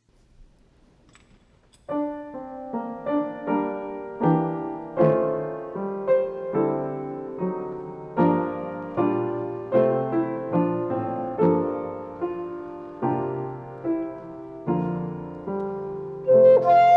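Piano playing a slow offertory piece, starting about two seconds in, each note or chord struck and then fading. Near the end a brighter, louder melody joins in.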